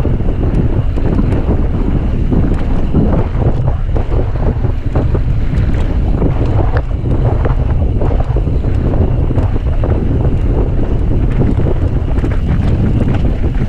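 Wind buffeting the camera microphone at riding speed while a mountain bike descends a dirt trail, with tyre rumble and frequent short knocks and rattles from the bike over bumps.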